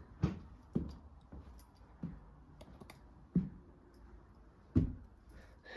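Footsteps climbing stairs: slow, uneven thuds about a second or more apart, the strongest near the start and near the end, with light clicks in between.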